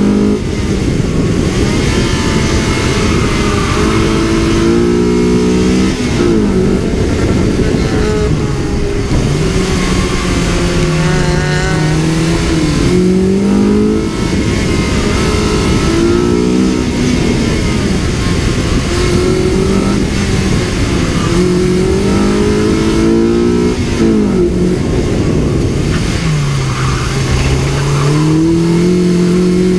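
Honda Civic EG's B18C4 1.8-litre DOHC VTEC four-cylinder driven hard. The engine revs climb and fall back many times as it pulls through the gears and comes off the throttle, over a loud, steady rush of wind and road noise.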